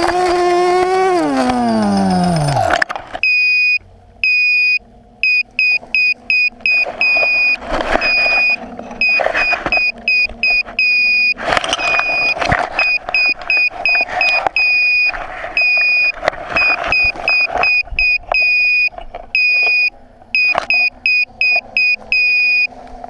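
Quadcopter's brushless motors whining and winding down to a stop over the first three seconds. Then an electronic beeper sounds in short, irregular high beeps, with brief knocks and rustling of the craft being handled in the hay.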